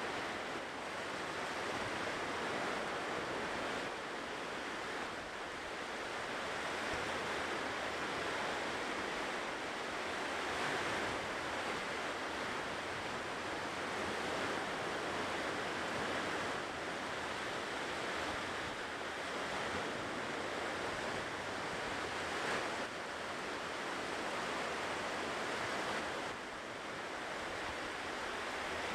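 Ocean surf washing onto a shore: a continuous rush of breaking waves that swells and eases gently.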